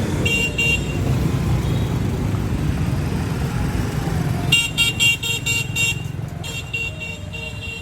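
Street traffic with a steady rumble of engines. A vehicle horn gives short beeps near the start, then a rapid string of short beeps between about four and six seconds in.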